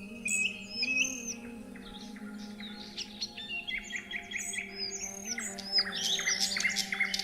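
Several songbirds chirping and calling: short repeated notes at first, then a dense flurry of quick chirps from about three seconds in, over soft sustained background music.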